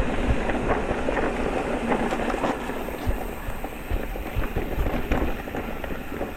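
Electric mountain bike riding over a rough, rocky trail: a steady rush of tyre and wind noise with frequent small knocks and rattles from the bike.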